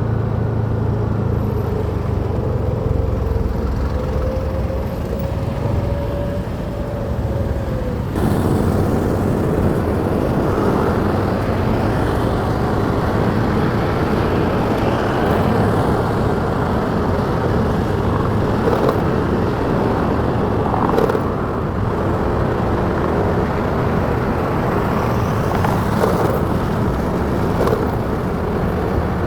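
Motorcycle under way: engine running, with wind and road noise on the rider's microphone. The engine note rises slowly over the first few seconds, and about eight seconds in the sound turns suddenly to a louder rush of wind.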